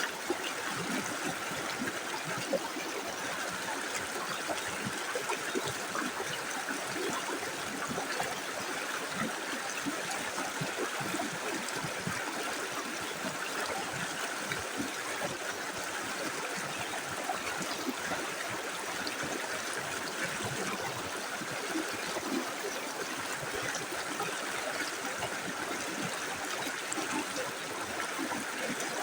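Small river running steadily: an even rush of flowing water with many small trickles and splashes through it.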